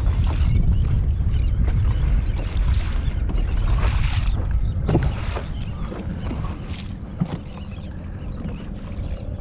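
Wind rumbling on the microphone over open water, with splashy water noise and occasional knocks; louder in the first half, easing after about six seconds.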